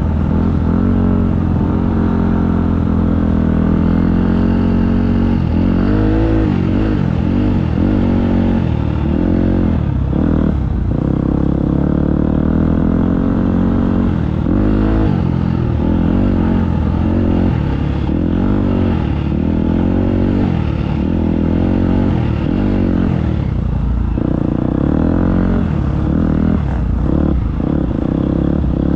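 Motocross dirt bike engine being ridden hard, the revs rising and falling again and again as the throttle opens and closes.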